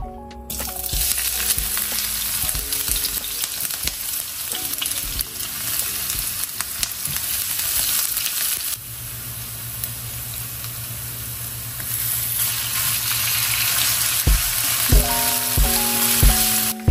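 Chopped onion and garlic sizzling in hot oil in a nonstick wok as they are tipped in and stirred with a spatula. The sizzle starts about half a second in and eases off for a few seconds around the middle before picking up again.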